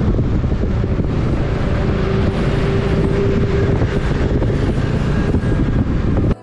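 Wind rushing over the microphone with road and engine noise from a moving motorbike. A held tone sounds for about two seconds in the middle. The noise cuts off sharply at the end.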